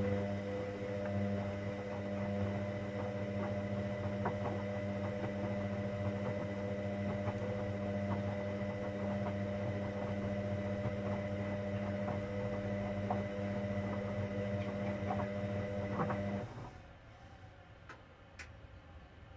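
Hoover Dynamic Next washing machine giving off a steady electrical hum, with faint scattered ticks. The hum cuts off suddenly about sixteen and a half seconds in.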